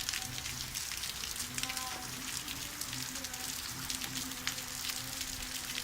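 Rain falling steadily: a dense hiss with many sharp individual drips.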